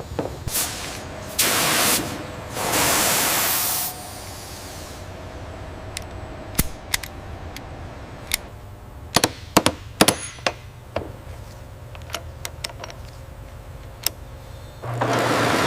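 Workshop tool sounds on metal: two loud hissing bursts, then a run of scattered sharp clicks and taps, and another hiss near the end, over a steady low hum.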